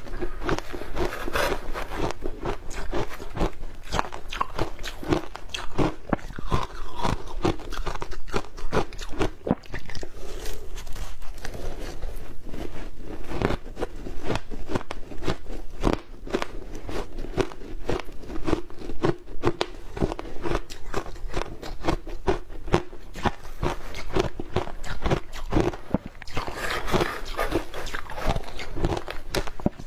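Close-up crunching of hard ice dusted with matcha powder being bitten and chewed: a dense, unbroken run of sharp cracks and crunches, many each second.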